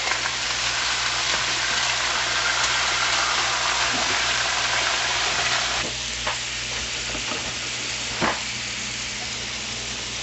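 Potato fries sizzling in hot oil in a frying pan as they finish cooking, stirred with a plastic spatula. The sizzle eases slightly about six seconds in, with a couple of light clicks of the utensil.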